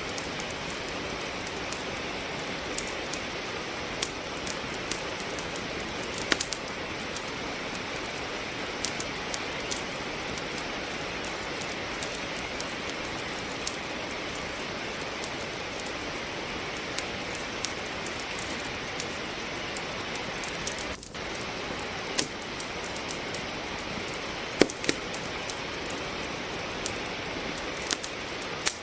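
Steady rain falling, mixed with a wood fire crackling in a fireplace: irregular sharp pops and snaps of burning logs scattered over the rain's even hiss, two of them louder than the rest. The sound dips for a moment about two-thirds of the way through.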